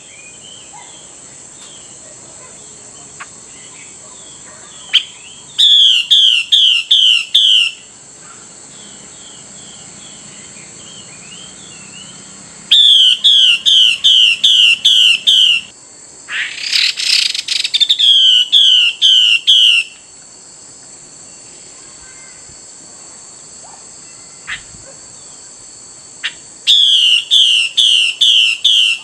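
Female Chinese hwamei calling: four bouts of five or six quick, downslurred notes, each bout lasting about two seconds, with a harsh rasping burst about halfway through. This is the female's 'xùy' call that draws and provokes a male. A faint steady high whine runs underneath.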